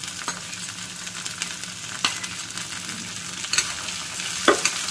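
Diced potato, onion and green peas sizzling in hot oil in a steel kadhai as they are stirred, with a steel spatula scraping and clinking against the pan. The loudest clink comes near the end.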